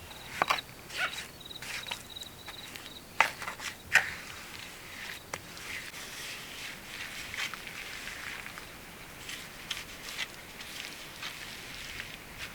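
Irregular rustling and crackling of dry vegetation, with a few sharper cracks about half a second in and again around three and four seconds in. An insect trills steadily for the first three seconds, then stops.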